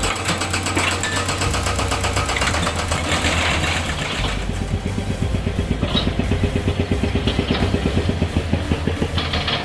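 Excavator-mounted hydraulic rock breaker hammering rock in rapid, even blows, over the excavator's diesel engine running under load.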